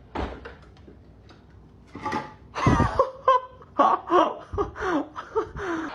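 A run of short vocal calls, each falling in pitch, starting about halfway in after a quiet first half; they sound like laughter.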